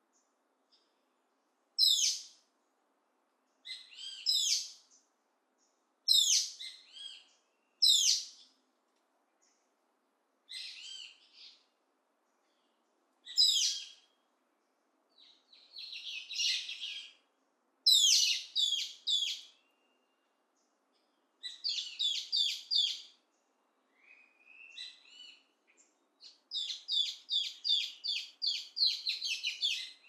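A bird singing short, sharp, high phrases of falling notes about every two seconds; near the end the phrases run together into a quick series of repeated notes.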